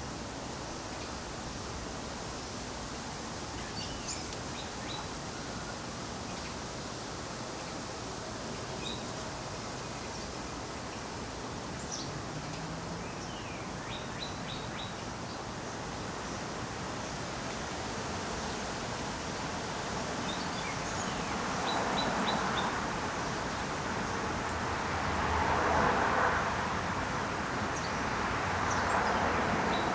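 Outdoor background noise with scattered short, high bird chirps. In the last third a broad rushing noise swells and falls three times.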